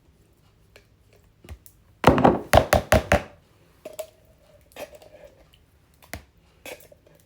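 Spoon knocking against a dish: a quick run of about five sharp knocks about two seconds in, then scattered single taps.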